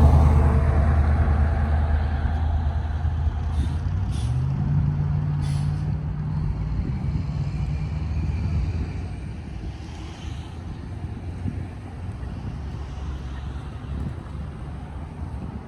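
Heavy truck's engine running close by, loudest at the start. About four and a half seconds in its pitch steps up, three short hisses come between about three and a half and six seconds in, and after about nine seconds the engine fades to a low rumble.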